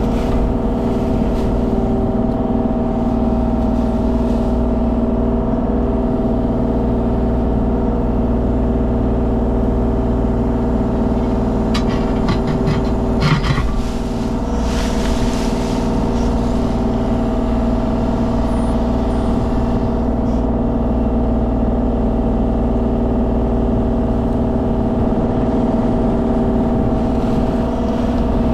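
Kubota mini excavator's diesel engine running steadily under digging work, with a short burst of rattling clatter about halfway through.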